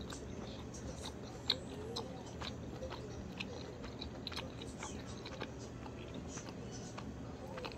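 A person chewing chewy canned whelk: irregular wet mouth clicks and smacks, several a second.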